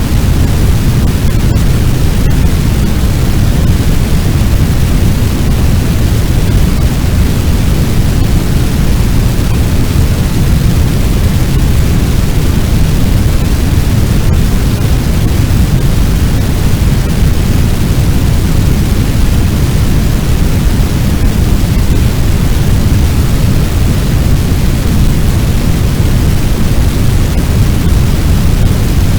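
Fire sound effect: a steady, loud, low roar of a large blaze, like rushing wind, with no let-up. A few faint clicks are scattered through it.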